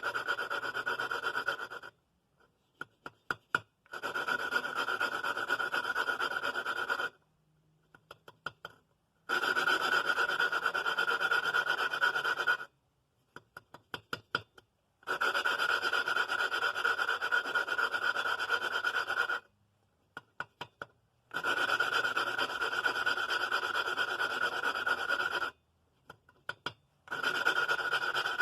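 Hand-lapping the exhaust valve of a Briggs & Stratton 5 hp flathead engine: the valve is twisted back and forth against its seat with a lapping stick and gritty grinding compound, making a steady rasping grind. The grinding comes in spells of two to four seconds, with short pauses of light clicks between them as the tool is lifted and reset.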